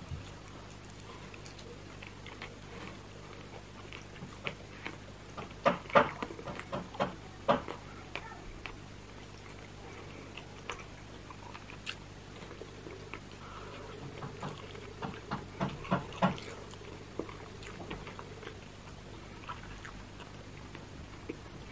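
Close-miked chewing and wet mouth sounds of someone eating roast chicken, with soft sharp clicks coming in two clusters, about six seconds in and again around fifteen to sixteen seconds in, over a faint steady hum.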